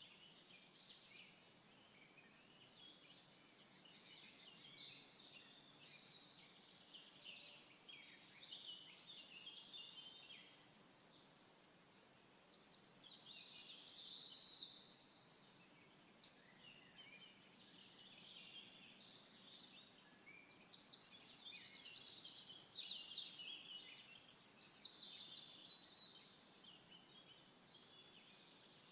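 Birdsong: several birds chirping and trilling throughout, with two louder stretches of fast, rapidly repeated trilling song, one about twelve seconds in and a longer one about twenty-one seconds in.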